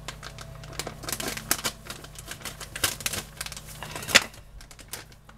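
Frozen stir-fry vegetables crackling and popping in hot oil in a pan on high heat, an irregular run of sharp clicks with the loudest about four seconds in; the frozen vegetables have cooled the pan, so the sizzle is sparse.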